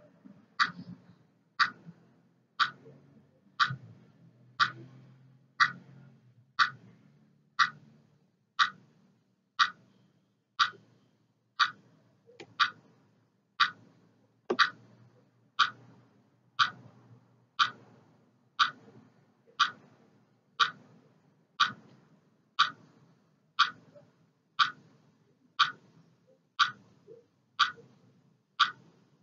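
A clock ticking steadily, one sharp tick about every second, marking off a timed countdown.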